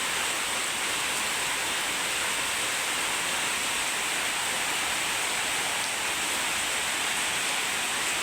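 Heavy rain falling steadily: a dense, even hiss with no thunder or other distinct sounds.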